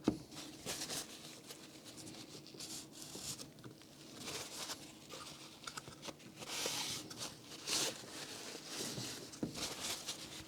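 Light handling noises on a workbench as small plywood parts are worked by hand: scattered soft taps and scrapes, with a couple of brief scuffing rustles about six and a half and nearly eight seconds in, over a faint steady hum.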